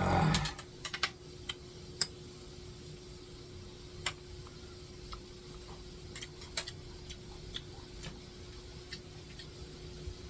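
Scattered, irregular small clicks and ticks over a steady faint hum.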